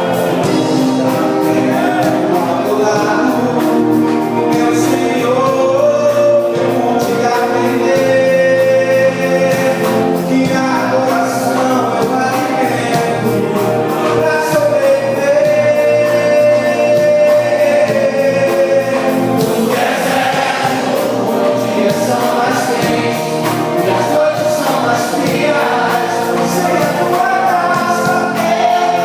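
Gospel music: a group of singers singing a hymn together over instrumental accompaniment with a steady beat.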